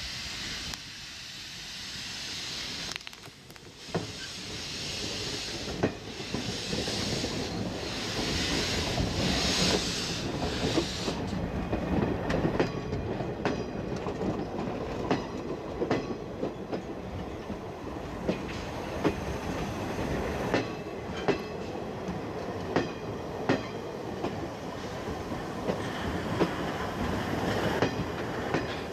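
Steam-hauled train of a C11 tank locomotive moving through the station. There is pulsing steam hiss for about the first ten seconds, then the wheels click over rail joints at an even rhythm as the sound grows louder.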